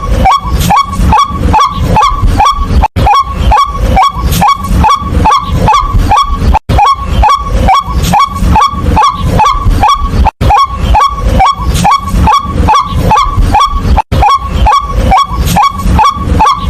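White-breasted waterhen calling in a fast, monotonous train of short hooked "kwak" notes, about three a second. The train is broken by a brief dropout every few seconds, as in a looped recording.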